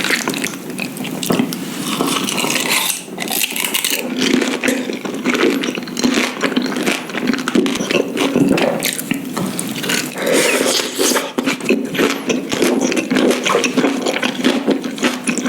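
Close-miked chewing of intestines: a steady run of wet clicks, smacks and crackles from the mouth.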